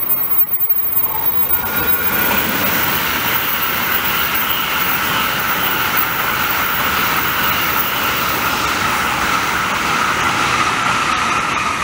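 An N700S Shinkansen trainset passing at speed: a steady rushing noise of wheels on rail and air, with a steady high whine. It builds over the first two seconds and then holds.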